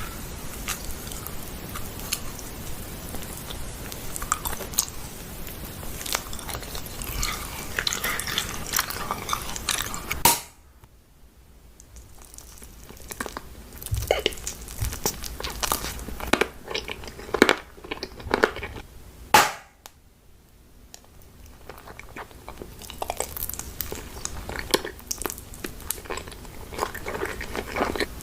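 Close-up eating sounds: crunching and chewing of crisp food, with many sharp cracks and crackles. The sound drops off abruptly twice, about a third and two-thirds of the way through, then the crunching resumes.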